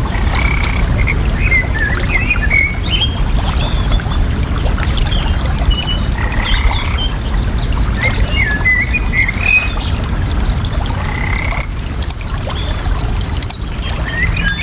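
Steady rush of running water, with birds singing short chirping phrases over it every few seconds.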